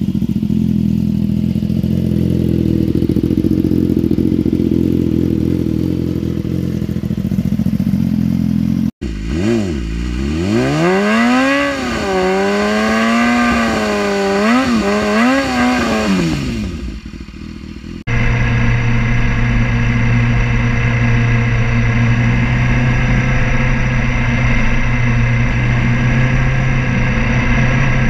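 BMW S1000RR inline-four engine in three sections. It runs steadily at first. About nine seconds in it is revved up and down over and over during a rear-tyre burnout. From about eighteen seconds it holds a steady note while riding, and the pitch rises near the end as it accelerates.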